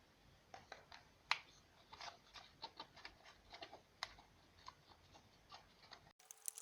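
A quiet run of light, irregular clicks and taps, with one sharper click about a second in, like small wooden or metal parts being handled and tapped.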